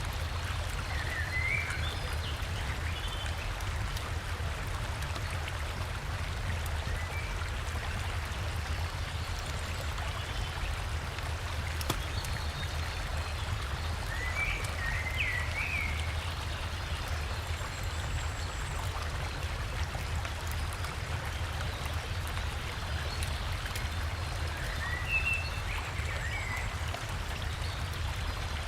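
Steady rushing of a river and waterfall, a low rumble under a broad hiss. Short bursts of forest birdsong three times: near the start, midway and near the end.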